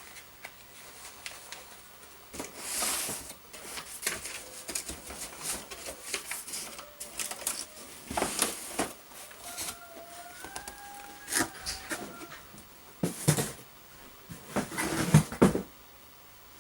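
Rustling and crinkling in short irregular bursts with light clicks and knocks, as of paper being handled, and a brief wavering tone about ten seconds in.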